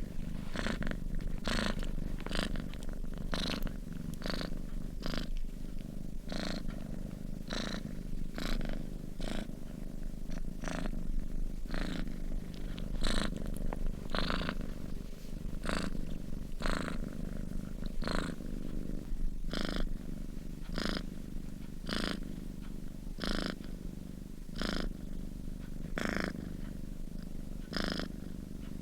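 Sleeping domestic cat purring steadily, the purr pulsing in a regular rhythm with its breaths, about one to two a second, slowing to about one a second in the second half.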